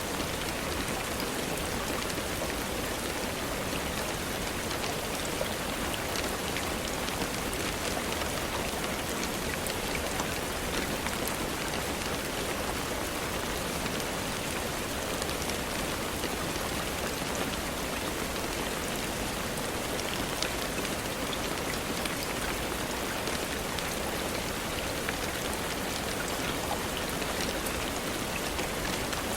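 Steady rain falling, a constant hiss with many individual drops pattering on a surface.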